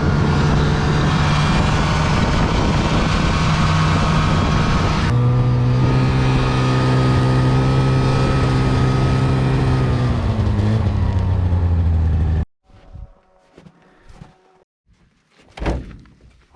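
Light aircraft's piston engine and propeller running steadily. The pitch shifts abruptly about five seconds in and eases slightly near ten seconds. The sound cuts off suddenly after about twelve seconds, leaving a few faint knocks.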